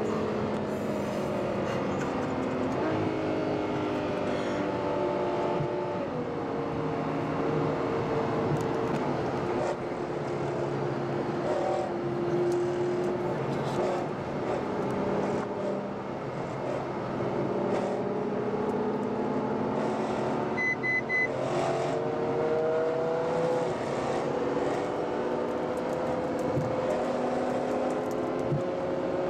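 Ferrari FF's 6.3-litre V12 running under way, heard on board; its pitch falls at the start, then rises and falls again with the throttle. A brief high double beep sounds about two-thirds of the way through.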